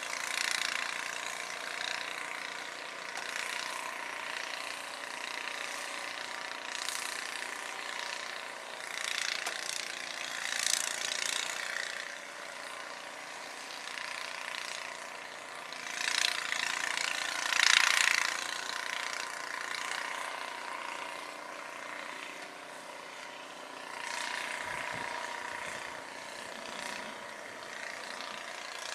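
Snowblower's small gasoline engine running steadily, with a few louder swells of noise about ten seconds in and again around sixteen to eighteen seconds.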